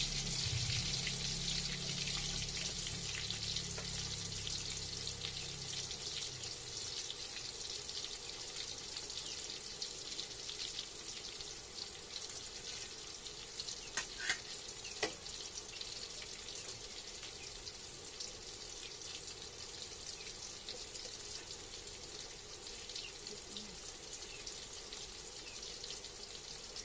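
Food frying in hot oil in a pan: a steady sizzling hiss that slowly grows quieter, with two sharp clicks of a utensil about halfway through.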